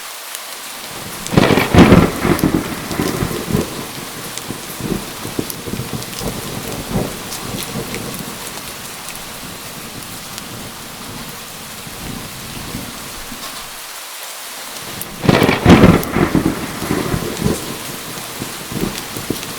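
Steady heavy rain falling, with two rolling thunderclaps, one about a second and a half in and one about fifteen seconds in, each rumbling away over a few seconds.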